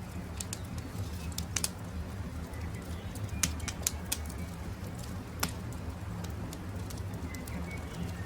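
Campfire crackling: scattered sharp pops and snaps at irregular intervals over a steady low rumble. Two faint, short bird chirps come through, a few seconds apart.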